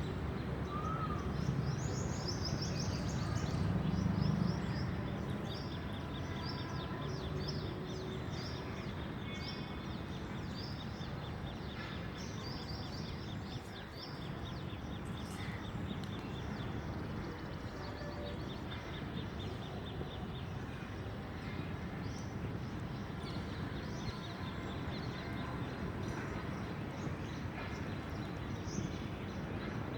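Birds chirping: many short high chirps, thicker in the first half, with a fast, fine trill from about 6 to 14 seconds in, over a steady background hiss.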